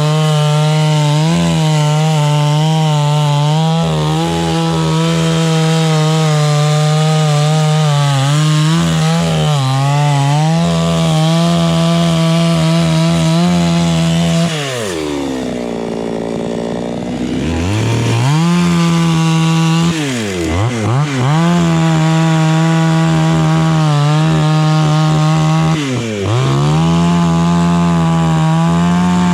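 Chainsaw running at high revs, cutting into a dry jackfruit tree. About halfway through the revs fall away for a couple of seconds and climb back, and twice more later they dip briefly and recover.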